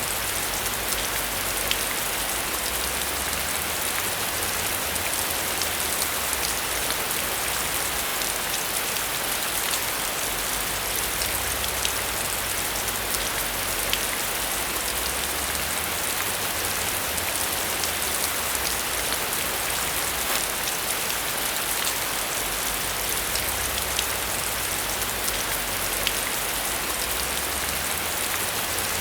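Steady rain falling on a surface: an even hiss with the scattered ticks of individual drops.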